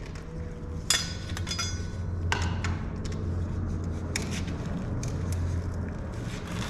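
Metal tools clinking, knocking and scraping on metal, with a sharp ringing clink about a second in and scattered knocks after, over a steady low hum.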